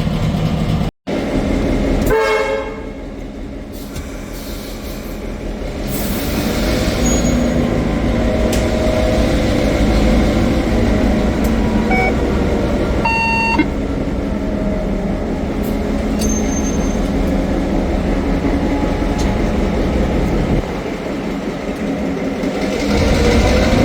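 Diesel engine of a P-class shunting locomotive (former V/Line P20) running, its sound building up from about four seconds in as the locomotive gets under way, with two short horn toots about two and thirteen seconds in. The sound cuts out for a moment about a second in.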